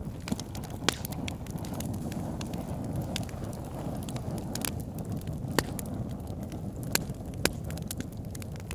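Wood fire burning in a fireplace: a steady low roar of flames with sharp, irregular crackles and pops, a few louder snaps among them.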